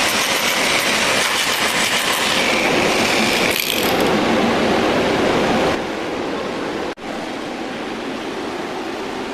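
Power tools at work freeing a steel door jamb from a masonry wall, the dense noise of a rotary hammer chipping and a grinder cutting. It gets quieter just before six seconds in, breaks off for an instant at about seven seconds, then carries on.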